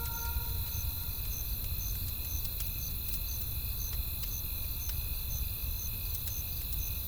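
A campfire crackling, with scattered sharp pops, under a low wind rumble, while crickets chirp steadily at about two chirps a second. A fading music note ends about half a second in.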